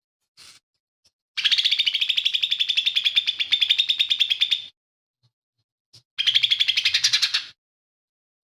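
Lesser green leafbird (cucak ijo mini) singing two fast, rattling bursts of rapidly repeated high notes: a long one of about three seconds starting a second and a half in, and a shorter one of just over a second near the end.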